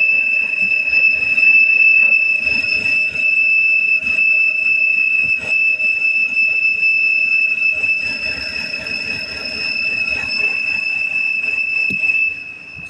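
2007 BMW X3 3.0's straight-six engine running with a loud, steady high-pitched whistle over the engine hum, an ugly noise ("ruido tan feo"). It is a vacuum leak through a cracked valve cover; pulling the oil filler cap makes it stop.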